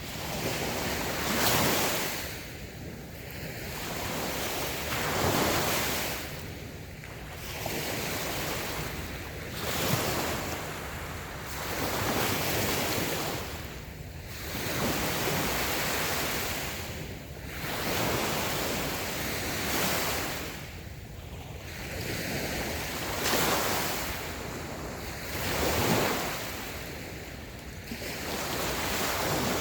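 Small waves breaking and washing up a sandy beach, swelling and easing in regular surges about every three to four seconds.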